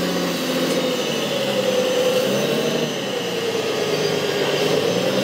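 A motor or engine running steadily, its pitch dropping about three seconds in and rising again near the end.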